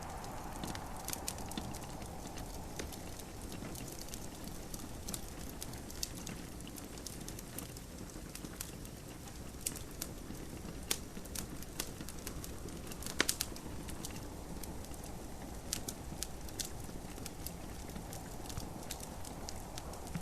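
Wood fire crackling in a fireplace, with scattered sharp pops, the loudest about 13 seconds in, over a steady low rushing of gentle rain.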